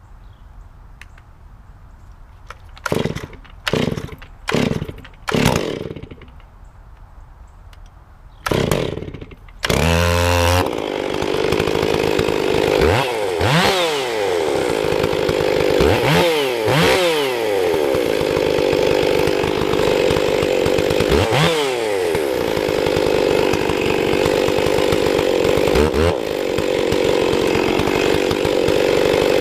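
Stihl 460 two-stroke chainsaw pull-started with several short tugs. It catches about ten seconds in and then runs at full throttle cutting wood on a 28-inch bar. The engine pitch sags under load and recovers several times as the freshly sharpened chain, with its rakers set low, pulls through the cut.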